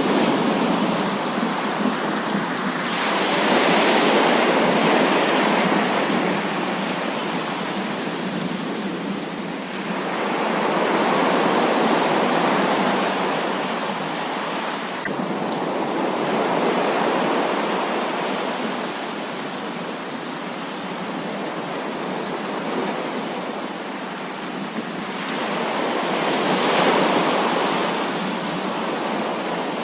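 Heavy rain falling in a steady hiss that swells louder every several seconds and then eases back.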